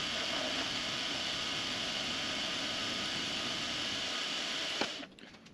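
Benchtop machine tool running steadily while cutting aluminium, then switched off just before five seconds in with a short click, after which the motor noise stops.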